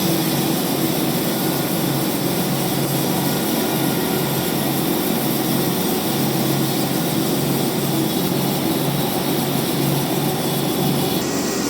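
Large band sawmill running steadily, its blade cutting through a rain tree (trembesi) log over a constant motor hum.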